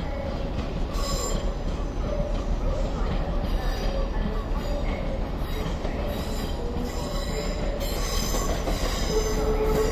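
Class 350 electric multiple unit running into a platform over steady rumbling, its wheels squealing on and off with high ringing tones, strongest about a second in and again near the end.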